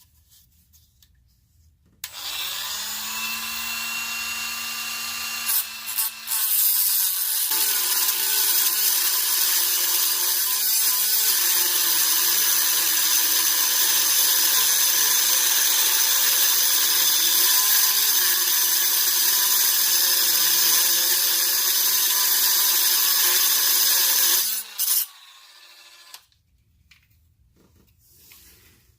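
Dremel rotary tool with a metal cut-off wheel starting up about two seconds in with a steady whine, then getting louder and grinding as the wheel cuts into a stripped, seized exhaust Y-pipe bolt. It runs for about twenty seconds with a brief dip early on, then stops suddenly.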